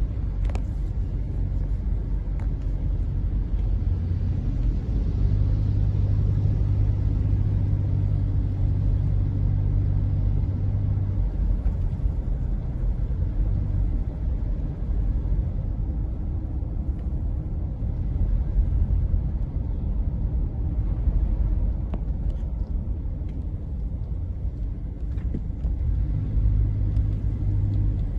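A car driving, with a steady low rumble of engine and road noise that swells and eases at times.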